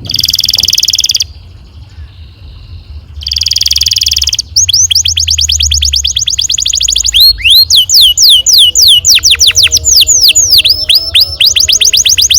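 Domestic canary singing a long rolling song: two short buzzy rolls, then a fast trill of quick downward-sweeping notes. About seven seconds in it changes to louder, slower falling whistles repeated several times a second.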